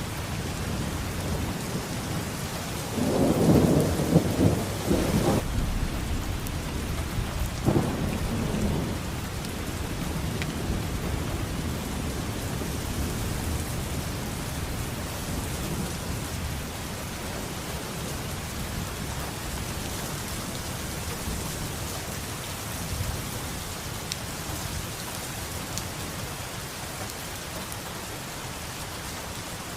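Thunderstorm: steady rain with thunder, a loud crack and rumble about three seconds in and a shorter peal around eight seconds, then steady rain with low distant rumbling.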